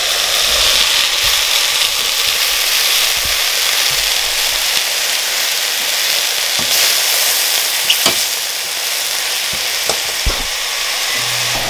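Sliced mushrooms and butter sizzling in hot oil in a stainless steel pot, a steady frying hiss. A metal spoon clicks against the pot a few times near the end as it stirs.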